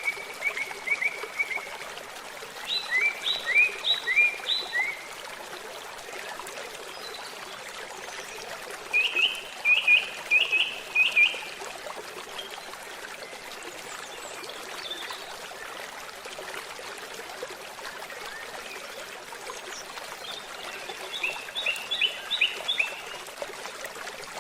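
Steady babbling of a flowing stream, with a songbird singing short runs of quick repeated chirps four times over it.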